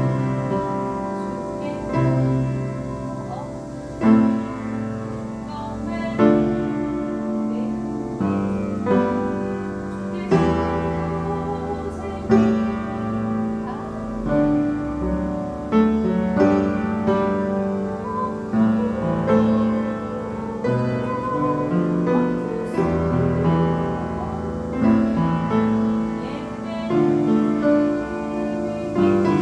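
Piano playing a slow piece, with sustained chords struck every second or two.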